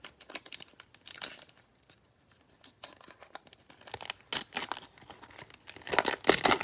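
Cellophane wrapper of a trading card cello pack being torn open and crinkled, a run of irregular crackles with the loudest flurry near the end.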